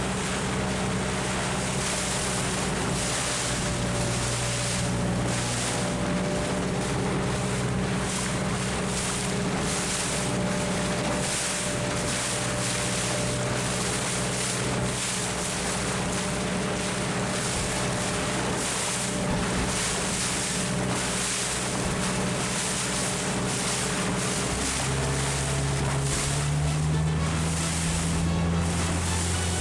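A boat's engine running steadily under way, with wind and water rushing past. Near the end the engine speeds up in two steps.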